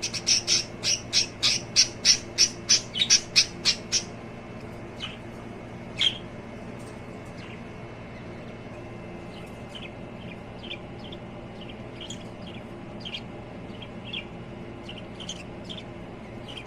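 Lovebirds chirping: a rapid run of about a dozen loud, sharp chirps over the first four seconds, then scattered softer chirps.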